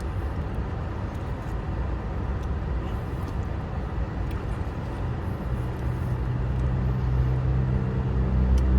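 Motor vehicle engine and road noise: a steady low rumble. About halfway through, a deeper engine hum joins it and grows louder.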